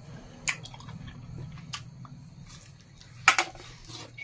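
A person chewing a mouthful of chicken curry eaten by hand, with wet squishy mouth sounds and a few sharp clicks, the loudest about three seconds in.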